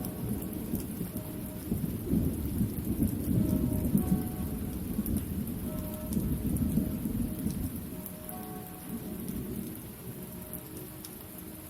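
Steady rain with a long, low rumble of thunder that dies away over the last few seconds. Faint bells ring through it as short, repeated tones.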